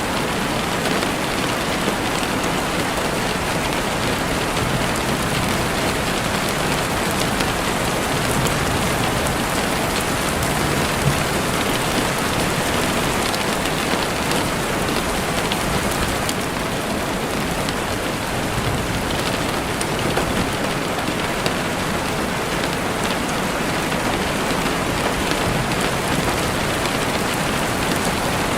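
Steady rain falling, with scattered sharp crackles and pops from a campfire; one pop stands out about eleven seconds in.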